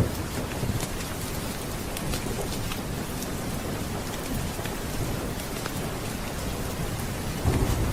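Steady heavy rain hissing with scattered drop patter, and thunder rumbling low, swelling about seven and a half seconds in.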